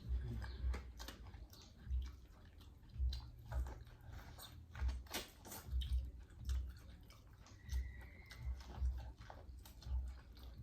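Close-up chewing and biting into corn on the cob: wet mouth clicks over a run of low thumps, about one or two a second.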